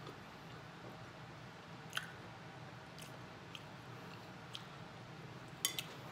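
Close-up eating sounds: faint chewing, with a few small sharp clicks scattered through, the clearest about two seconds in and a quick pair near the end.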